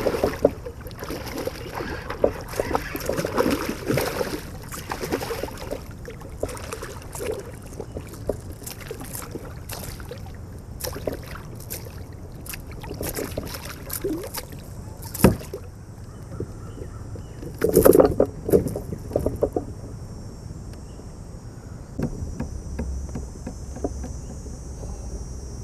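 Water splashing and sharp knocks and clicks around a kayak while a big smallmouth bass is fought and landed, with the loudest burst about two-thirds of the way through.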